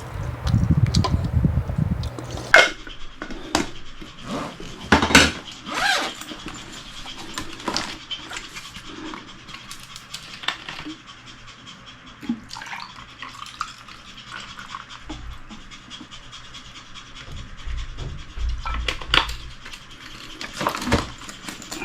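A dog panting, with scattered light clicks and knocks, and a low rumble over the first two seconds.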